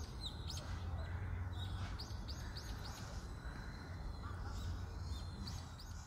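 Small birds chirping, short high calls repeated many times at irregular intervals, over a low steady outdoor rumble.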